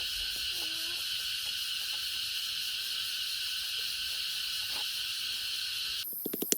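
Steady high-pitched drone of insects, which cuts off abruptly about six seconds in, followed by a quick run of sharp clicks near the end.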